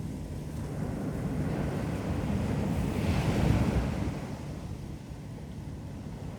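Ocean waves breaking and washing up a beach: the surf swells to a peak about halfway through and then fades, with wind rumbling on the microphone.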